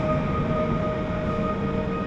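Passing train, a steady low rumble with held whining tones over it, mixed with background music.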